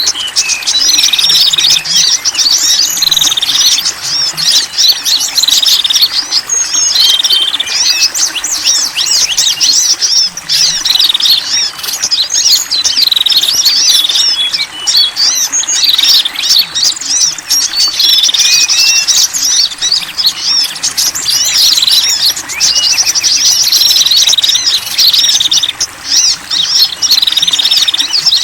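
Small songbirds chirping and twittering continuously: a mix of calls put together as a lure for wild small birds. Dense high chirps run throughout, with a short falling trill repeating every few seconds.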